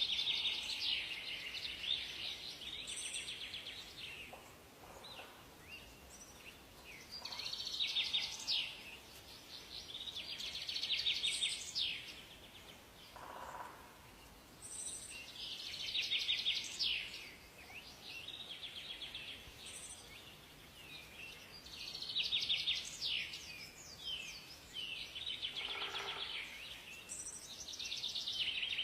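Songbirds singing in a forest: high, rapid trilling song phrases a couple of seconds long, repeated every three or four seconds, over a soft background hiss, with an occasional lower call.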